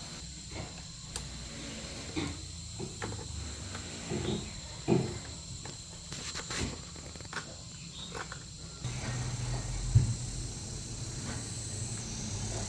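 Steady high insect chirring, with scattered light knocks and clicks of handling. About nine seconds in, a low hum starts.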